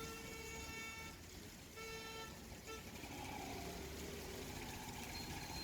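A vehicle horn honking: a held blast of about a second, a second shorter blast, then a brief toot, over steady background street noise.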